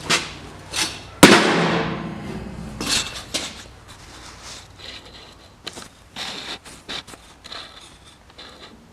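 Steel parts being handled and set down: a series of metal knocks and clanks, with one loud clang about a second in that rings on for about a second, then lighter knocks.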